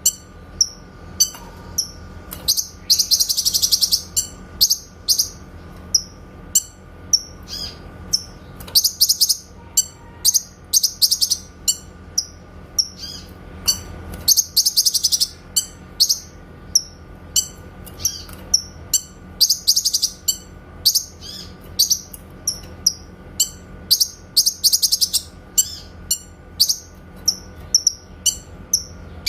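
Cucak kinoy songbird giving its sharp, high "tembakan" (shot) chirps about twice a second, broken every few seconds by a longer rapid trill. A faint steady hum runs underneath.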